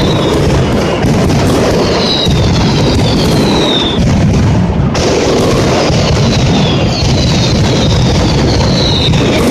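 Mascletà firecracker barrage: a dense, continuous run of bangs merging into one loud rumble, with falling whistles sounding over it again and again.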